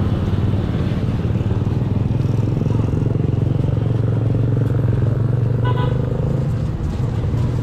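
Engines running with a steady low drone, and a brief high beep about six seconds in.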